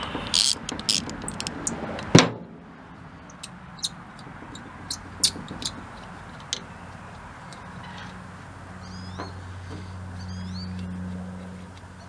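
Metal clinks and knocks of hand tools on a Blackmer TDX2D vane fuel pump being torn down. A flurry of clicks comes first, then one loud clank about two seconds in, then scattered lighter ticks.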